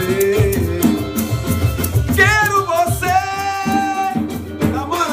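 Live band playing with cavaquinho and hand percussion over a steady beat. A voice sings a phrase about two seconds in and holds one long note.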